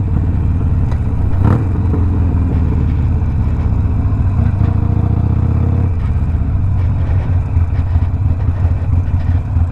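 Harley-Davidson Sportster Iron 1200's air-cooled V-twin running under way through a Two Brothers 2-into-1 aftermarket exhaust. The engine note picks up about a second and a half in and eases off around six seconds.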